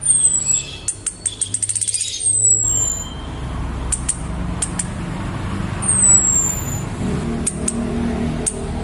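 Female chestnut-capped thrush calls used as a lure for males: thin, high whistles sliding downward, three in all, with a quick run of ticking clicks about a second in. A low steady rumble lies underneath.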